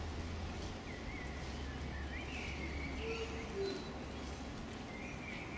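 Small birds chirping in short rising and falling notes over a steady low hum.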